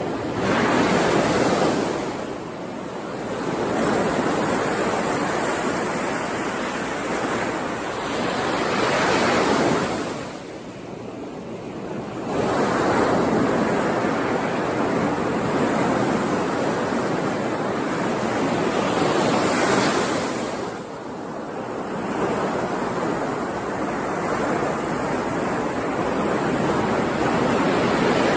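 Ocean waves breaking on a shore and washing back, the surf swelling and falling away every several seconds.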